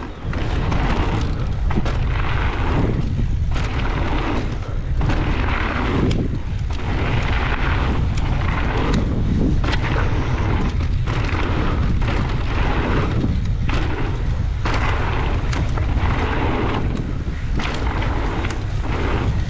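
Wind buffeting a helmet- or body-mounted action camera's microphone while riding fast, a heavy low rumble with noisy swells every second or two.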